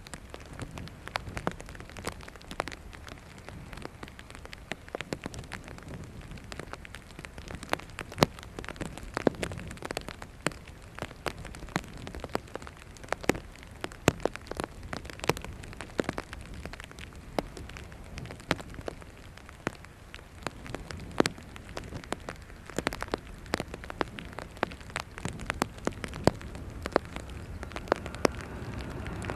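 Steady rain with many sharp, irregular drop ticks close to the microphone. Near the end a distant jet aircraft's engine noise starts to swell.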